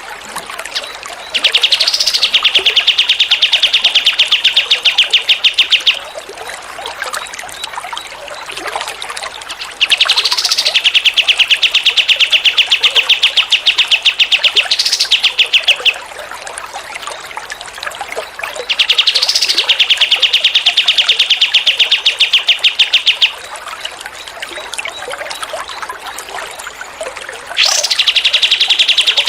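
A songbird repeating a long, rapid rattling trill of high notes, each bout opening with a quick rising note and running about four to six seconds, four bouts with short gaps between. Water trickles faintly underneath.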